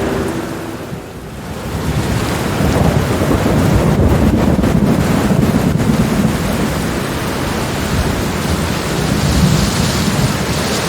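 Steady rain with rolling thunder: after a brief lull about a second in, a low rumble builds and rolls on through the rest of the stretch.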